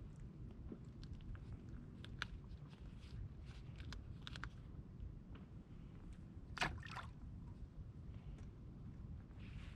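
Water sloshing and lapping against the hull of a drifting inflatable boat over a steady low rumble, with scattered small clicks and taps; the sharpest click comes about six and a half seconds in.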